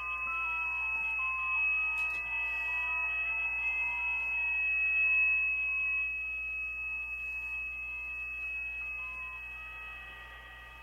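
Receiver audio from an Icom IC-7300 tuned to the 6-meter band: a steady heterodyne whistle holds one pitch throughout. Beneath it, several weaker digital-mode signals warble in tones that step between fixed pitches a few times a second, over a low hum.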